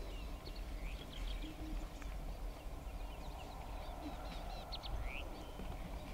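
Wild birds chirping and calling, a scatter of short high chirps and a few rising whistles, over a steady low rumble.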